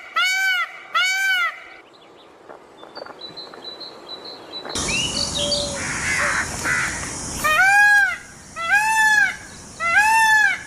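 Indian peafowl (peacock) calling: two loud, arched, nasal calls at the start, a lull, then three more calls about a second apart near the end. A steady hiss comes in about halfway through.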